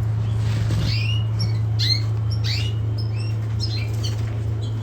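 Caged canaries chirping: many short, quick calls that sweep up and down in pitch, several a second, over a steady low hum.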